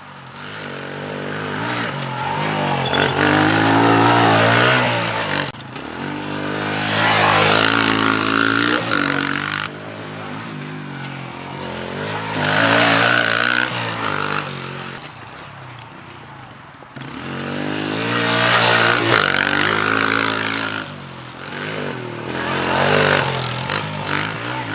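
Pit bike's small single-cylinder four-stroke engine riding around the track, revving up and dropping back several times. The loudest surges come about 4, 8, 13 and 19 seconds in.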